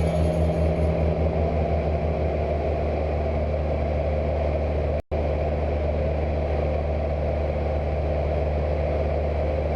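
Cessna 172 light aircraft's piston engine and propeller droning steadily in flight. The sound cuts out for an instant about five seconds in.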